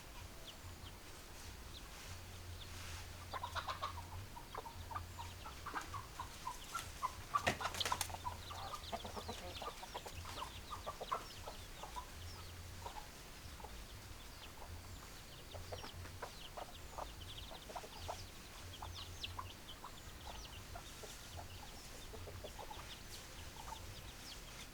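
Hens clucking, many short calls overlapping, busiest and loudest in the first half with one sharp, louder burst about a third of the way in.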